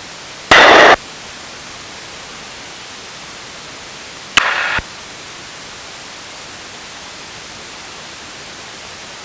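Steady hiss of an aircraft radio and intercom feed, broken by two short bursts of radio transmission: a loud one about half a second in and a weaker one a little past four seconds that opens with a click.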